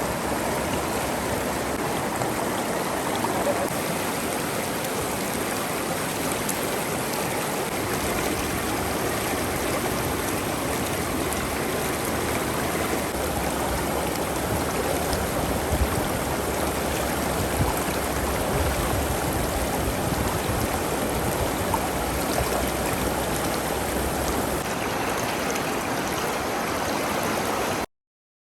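A river flowing, a steady rush of water that cuts off suddenly near the end.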